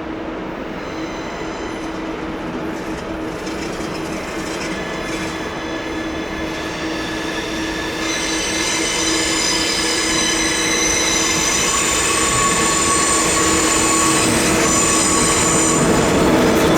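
Train wheel flanges squealing against the rails in a curve. A steady lower squeal is joined about halfway through by several high squealing tones, and the sound grows louder throughout over the noise of the rolling train.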